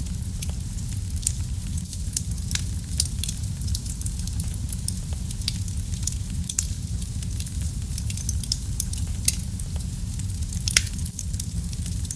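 Wood fire burning in a fireplace, crackling with irregular sharp pops over a steady low rumble of the flames; a louder pop a little after nine seconds and another near eleven seconds.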